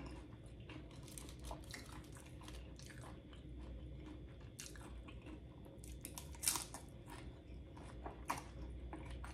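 Close-miked chewing of loaded nachos, the tortilla chips crunching in soft, scattered crackles, with a sharper crunch about six and a half seconds in and another near the end.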